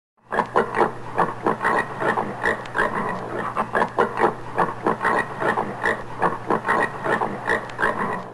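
Common warthog grunting in a rapid, even series of short grunts, about three or four a second, that cuts off suddenly near the end.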